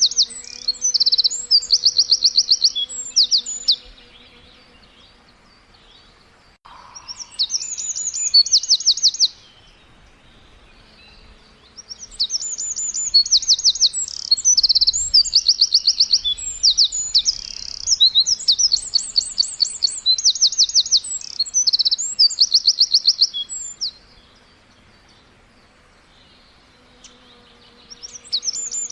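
Songbirds chirping in bouts of fast, high trilled phrases, with pauses of a few seconds between bouts.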